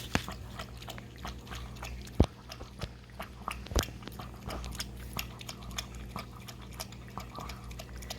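Puppy lapping water, an irregular run of quick wet clicks, with two louder knocks about two and four seconds in.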